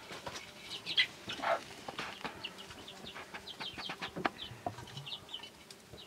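Scattered short bird chirps, with light clicks and knocks of a metal ladle in a cooking pot as liquid is ladled out.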